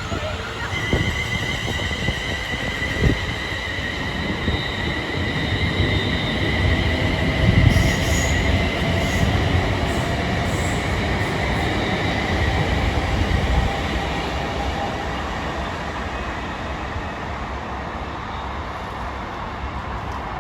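A train running close by, with steady high-pitched squealing over a heavy rumble and a lower whine that falls slowly in pitch. It is loudest about eight seconds in.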